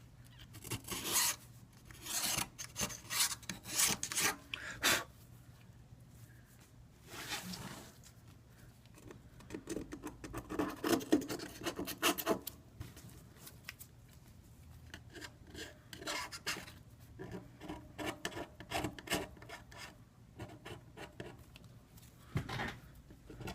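Scraping and rubbing on the iPad 2's aluminium frame, in irregular runs of short strokes with pauses between them.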